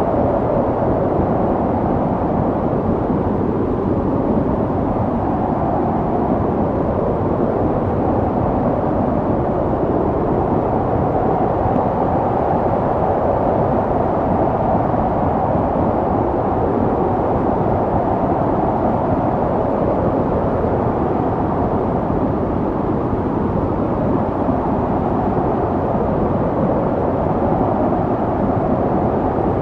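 Snowstorm wind blowing steadily: a dense, low rushing noise with a hollow howl that slowly wavers up and down.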